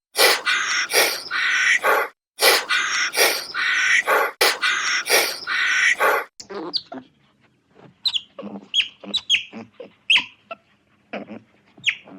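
Animal calls: a run of loud, repeated cries, about two a second, then quieter short chirps that fall in pitch, from about six seconds in.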